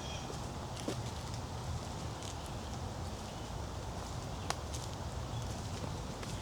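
Footsteps of a hiker walking a woodland trail, with a few sharp clicks over a steady outdoor hiss.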